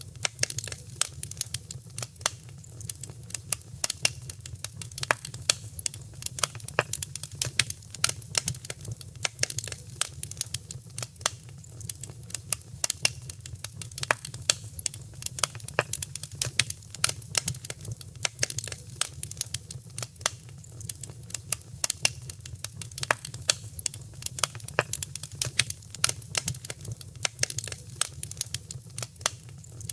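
Wood fire in a fireplace crackling and popping, many sharp irregular pops a second, over a steady low rumble of the flames.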